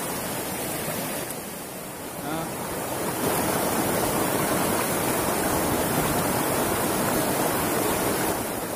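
Rushing water of a small hill stream in spate, swollen by a night of rain, a steady noise of fast current that grows louder about three seconds in.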